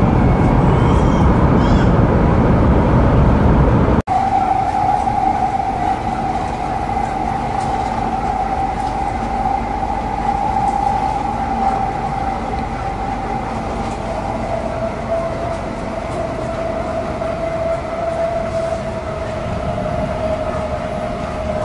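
Kyushu Shinkansen 800-series train running, heard from on board. A loud, even rumble by the doors gives way after a cut, about four seconds in, to a quieter cabin rumble with a steady whine that drops slightly in pitch in the second half.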